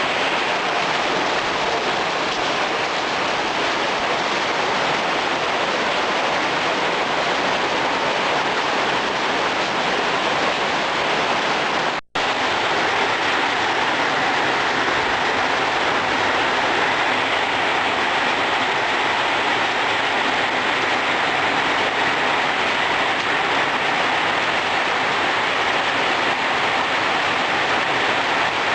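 Heavy rain pouring down in a steady, even hiss, with a momentary break about twelve seconds in.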